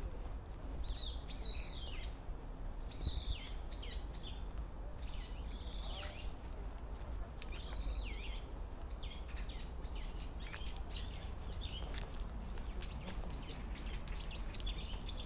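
Small birds chirping: many short, high calls, scattered at first, then coming quickly one after another in the second half. A steady low rumble runs beneath.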